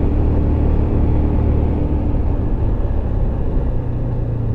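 Motorcycle riding along at steady speed: the engine's low hum under heavy wind rumble on the rider's microphone, the engine note stepping up slightly about three and a half seconds in.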